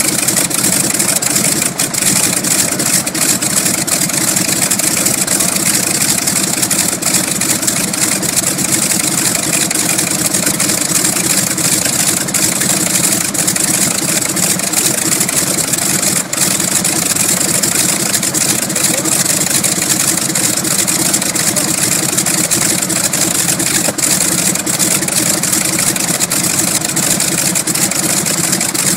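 Boeing P-26 Peashooter's Pratt & Whitney R-1340 Wasp nine-cylinder radial engine running steadily on the ground as it warms up after starting.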